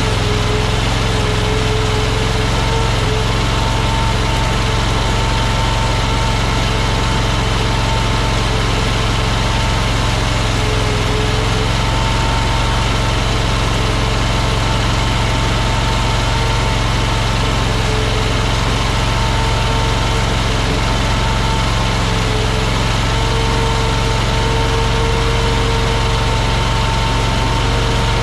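Engine of an AGT LRT23 mini skid steer running loud and steady, holding one speed throughout.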